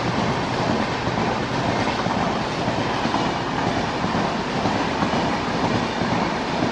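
Express train's passenger coaches passing at speed, with the steady noise of their wheels running over the rails.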